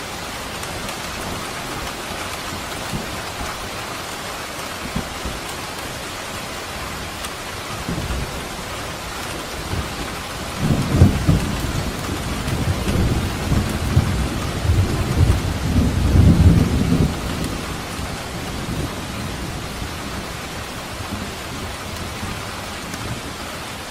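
Steady rain falling, with a long roll of thunder rumbling from about ten seconds in to about seventeen seconds in, with several peaks.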